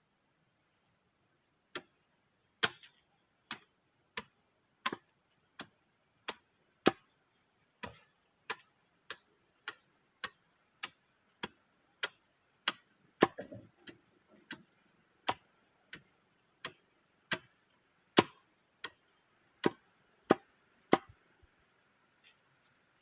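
A tool striking, with sharp single knocks repeated at a steady pace of about one and a half a second, some harder than others, over a steady high chirring of insects.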